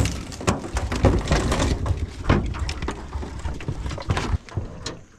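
Irregular knocks, scrapes and rattles from a crab pot full of live mud crabs being handled in a small boat, with a low rumble under them; the clatter dies away near the end.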